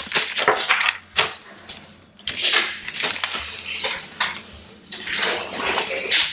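Clinks, knocks and scraping of a utensil working in a jar, as sourdough starter is scraped across into a bigger jar.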